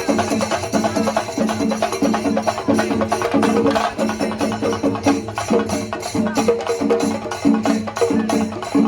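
Kerala temple percussion ensemble (chenda melam), stick-struck chenda drums with cymbals, playing a fast, even rhythm.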